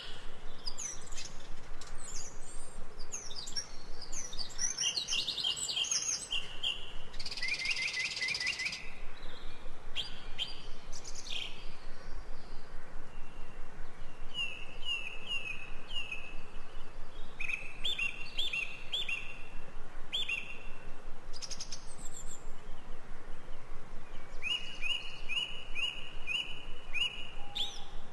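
Forest songbirds calling and singing, with repeated quick series of short falling chirps and higher trills, over a steady faint background hiss.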